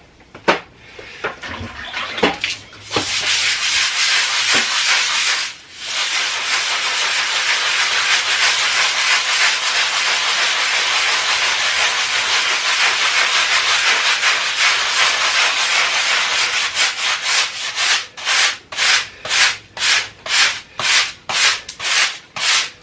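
A stiff scrub brush scrubbing a wet, moldy basement wall: fast continuous back-and-forth scrubbing for most of the time, changing near the end to slower, separate strokes about twice a second.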